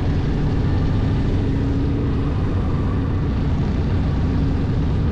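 Motorcycle engine running steadily under way, a continuous low engine sound with an even noise of wind and road over it.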